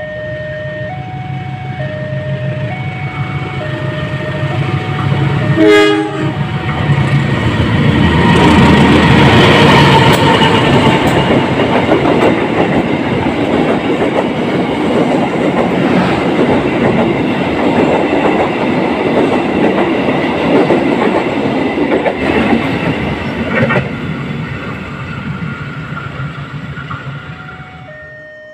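Passenger train led by a diesel locomotive running through a station without stopping. The locomotive hums as it approaches, sounds a short horn blast about six seconds in, then the carriages pass in a long loud rush of wheel clatter on the rails that fades away near the end.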